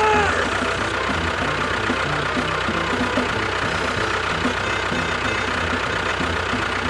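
Engine running steadily at idle with a regular knocking pulse, over background music.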